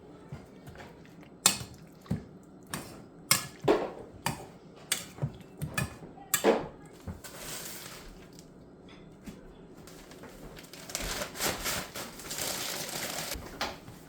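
Kitchen handling sounds: a string of sharp clicks and knocks of a utensil against a bowl during the first half, while chicken strips are mixed in beaten egg. Near the end comes a stretch of rustling, crunchy noise.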